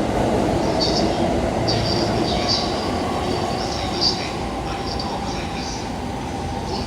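A Tōkaidō Line commuter train running along the platform track, a steady rumble that slowly fades, with short high squeals from the wheels on and off.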